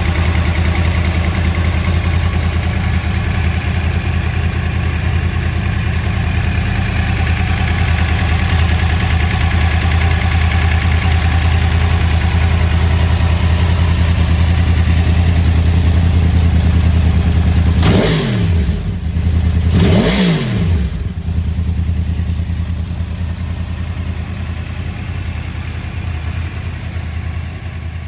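Yamaha YZF-R1 inline-four engine idling steadily. Late on it gets two quick throttle blips about two seconds apart, each rising and falling back in pitch.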